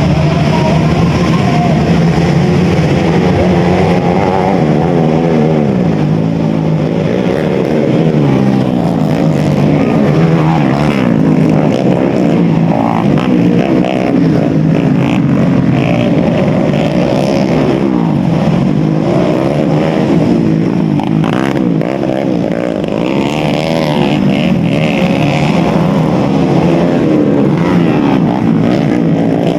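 Several trail/dirt bike engines running and revving together, their pitches rising and falling over one another continuously.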